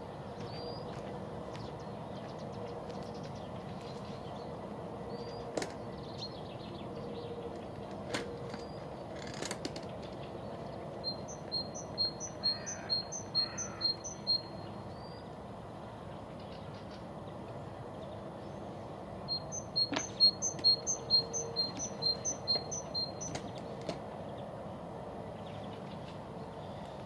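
A songbird singing two phrases, each a quick series of repeated high two-note calls about a quarter to half a second apart, over a steady background hiss.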